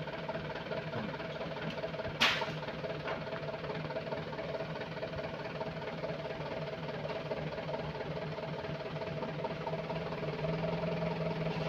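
A heavy machine's engine running steadily at a constant pitch, with one sharp knock about two seconds in.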